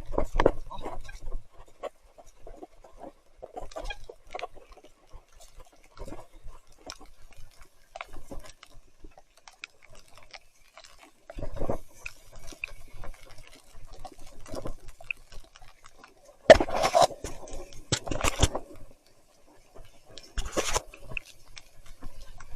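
Mountain bike ridden on a muddy trail in the rain: irregular clicks, knocks and rattles, with louder noisy bursts about halfway through and near the end.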